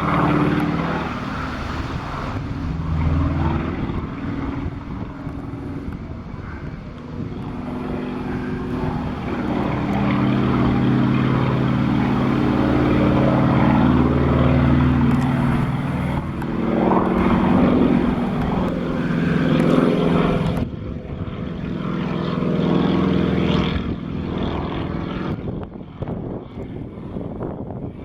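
Sukhoi Su-26MX aerobatic plane's nine-cylinder radial engine and propeller passing overhead during a display. The engine note rises and falls in pitch and loudness as the plane manoeuvres, and turns duller and quieter about two-thirds of the way through.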